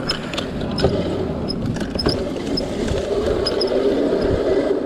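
Electric dirt bike being ridden over rough ground: a steady motor whine under scattered knocks and rattles from the bumps.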